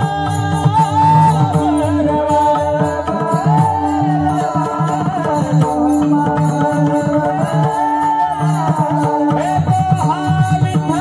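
Marathi kirtan music: a voice singing a devotional abhang with gliding, held notes over steady sustained accompaniment tones and a regular jingling percussion beat.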